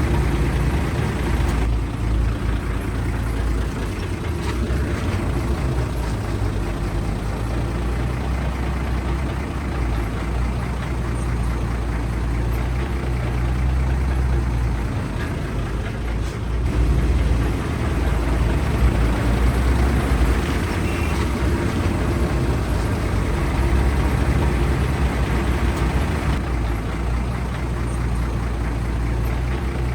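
Diesel engine of heavy construction equipment running steadily at a low, even pitch.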